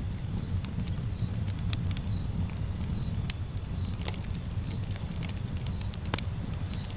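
Campfire burning: a steady low rumble of flames with scattered sharp crackles and pops from the burning wood. A short, high chirp repeats evenly about every second behind it.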